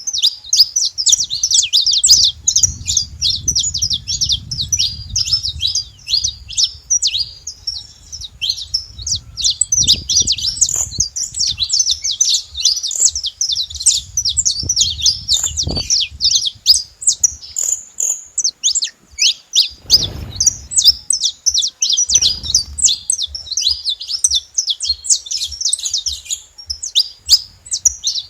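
Saffron finches chirping in a dense, rapid, unbroken stream of high chirps, with a few low thumps and rumbles underneath.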